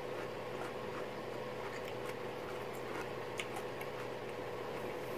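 A person chewing pickles, with a few faint crunches, over a steady electrical hum.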